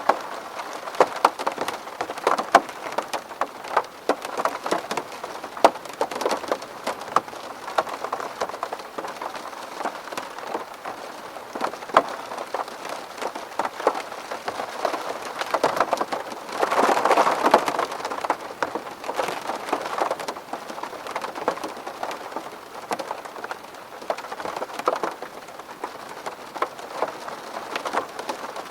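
Rain falling on a window pane: a steady hiss of many irregular, sharp drop taps, swelling briefly into a heavier burst a little past the middle.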